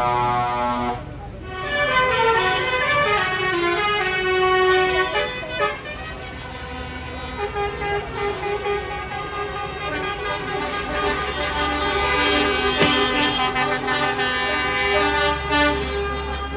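Tractors running with horns sounding, several held and shifting pitched tones over a low engine rumble.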